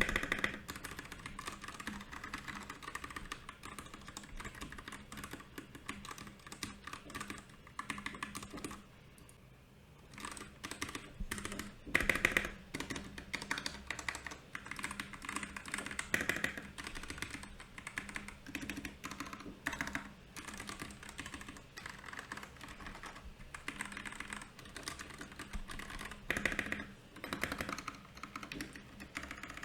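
Typing on a Royal Kludge RK68 mechanical keyboard: a steady patter of key clicks, easing off briefly about a third of the way in, then picking up again with a louder flurry.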